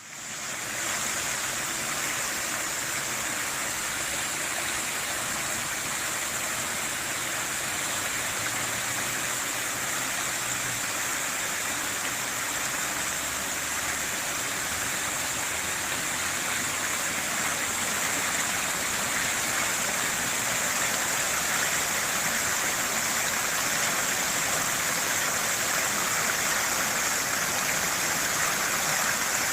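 Fountain water falling and splashing into its basin, a steady, even rush of water that fades in over the first second.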